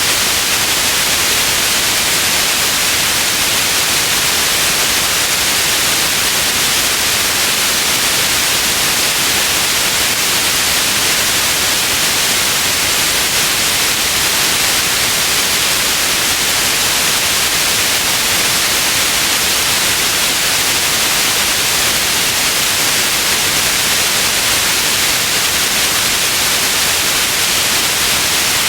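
Steady, loud white noise: an even hiss, brightest in the treble, with no change in level or texture.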